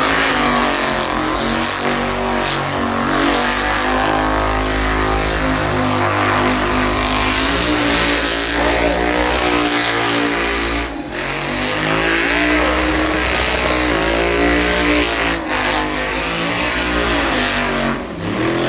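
Car engine held at high revs in a burnout, the revs wavering up and down over a steady hiss of spinning tyres. The revs drop briefly a few times.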